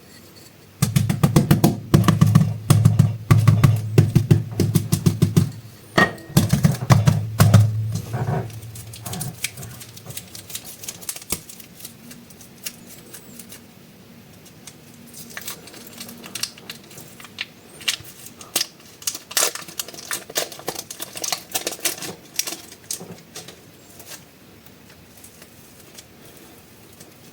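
Plastic clay packaging crinkling and crackling in rapid clicks, heavy and dense for about the first ten seconds over a low rumble, then lighter, scattered crackles.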